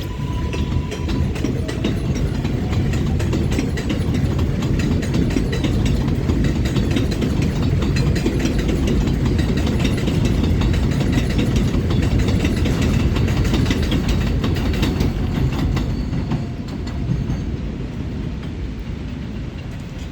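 R142/R142A subway train running past, its wheels clattering steadily over the rail joints; the noise builds over the first couple of seconds, holds, then fades away near the end.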